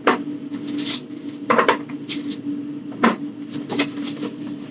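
Items being handled and set down while a fridge is cleared and reorganized: a series of light knocks and clicks, about half a dozen, over a steady low hum.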